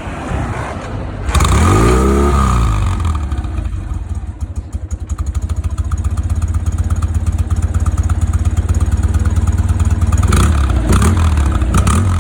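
1966 BMW R69S's flat-twin boxer engine starting up about a second in, revving up and dropping back, then idling with an even beat. Near the end it is revved again in short blips of the throttle.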